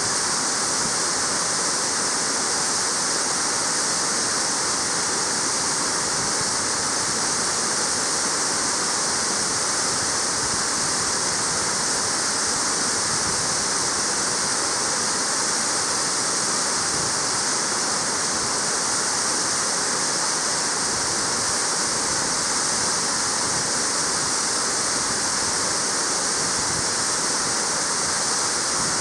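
Waterfall pouring steadily, a constant, even rush of falling water with a bright hiss and no breaks.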